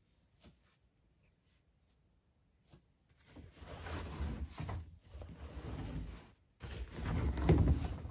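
Hoover New Wave Plus WA1300 washing machine's drum turning slowly after the spin, laundry tumbling in two spells of a few seconds each with a brief pause between.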